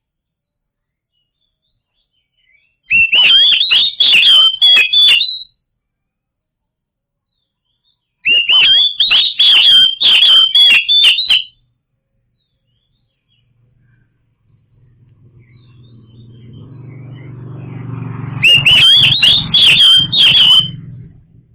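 Oriental magpie-robin singing loud, rapid phrases of whistled and harsh notes in three bursts of two to three seconds each, with silence between. A low hum swells up underneath before the third burst.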